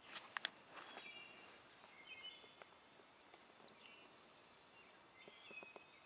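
Faint songbirds singing: short whistled phrases and a quick trill, repeating throughout. A few sharp clicks about half a second in.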